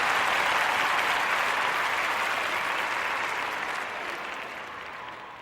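A crowd applauding, many hands clapping in a dense steady patter that gradually fades away over the last couple of seconds.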